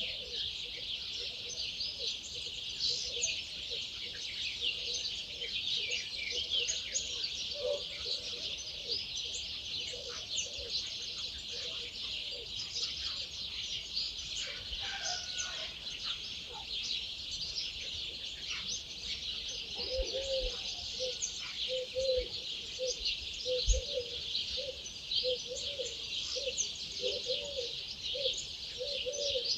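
Dawn chorus: many songbirds singing and chirping at once in a dense, high-pitched mass. A lower-pitched bird call comes in with short repeated notes, about one and a half a second, from about two-thirds of the way through.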